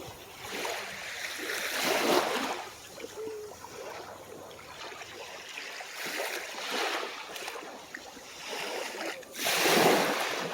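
Small, calm waves breaking and washing up on the shore, in surges every few seconds, the loudest near the end.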